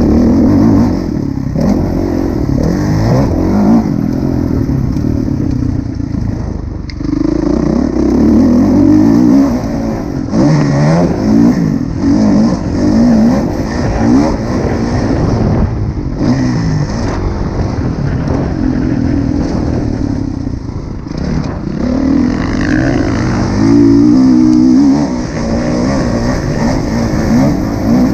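Kawasaki KX450F four-stroke single-cylinder motocross engine, revving hard and backing off again and again, its pitch rising and falling.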